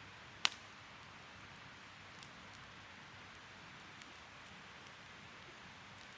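Wood fire burning with a steady soft hiss, a sharp crackle about half a second in and a few fainter pops later.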